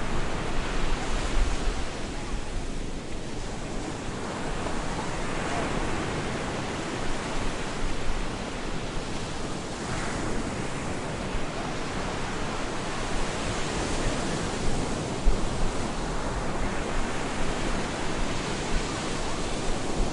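Stormy surf breaking on a beach: a continuous wash of waves that swells and eases every few seconds, with wind.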